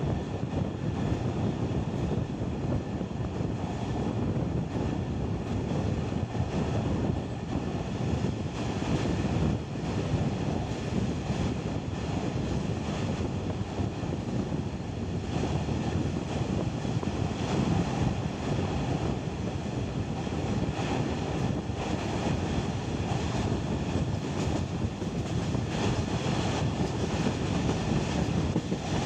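Passenger train coach running along the track: a steady rolling rumble of steel wheels on the rails, heard from the coach window.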